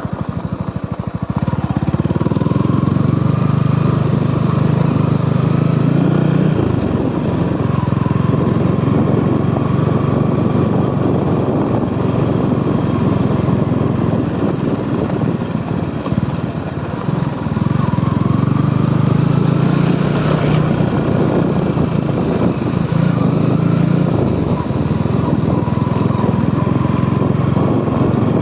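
Motorcycle engine running as it is ridden, its pitch rising and falling several times with the throttle.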